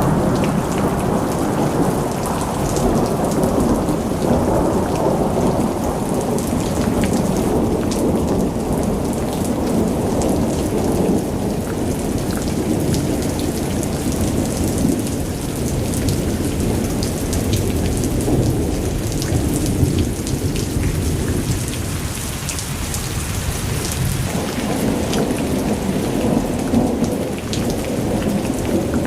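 Heavy monsoon rain pouring steadily, with a deep continuous rumble beneath it and scattered drop ticks on top; the rumble eases a little about two-thirds of the way through and builds again near the end.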